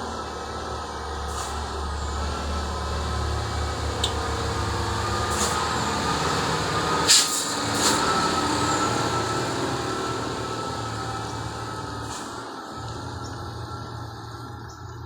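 Loaded dump truck's diesel engine running under load, a low drone with a steady high whine over it, growing louder toward the middle and easing off near the end. A short sharp hiss-like burst about seven seconds in, with a smaller one just after.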